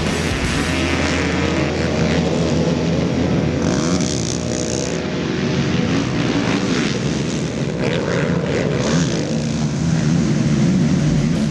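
Racing ATV engines revving hard, their pitch rising and falling as the quads accelerate and shift.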